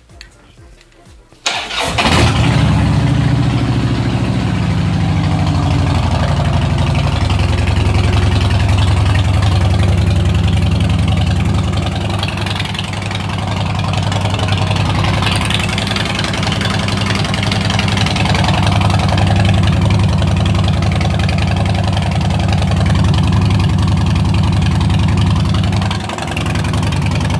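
Harley-Davidson Road Glide's 103 cubic inch V-twin starting about a second and a half in, then running steadily through its customized aftermarket exhaust, with a brief dip near the end.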